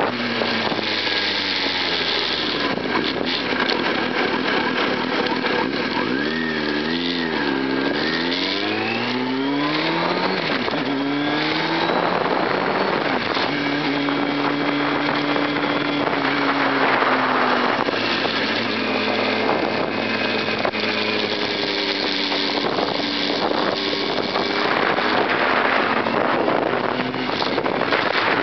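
Sport bike engine running under way, its pitch wavering and then rising as it accelerates a few seconds in, then holding steady at a cruise, with heavy wind noise on the microphone.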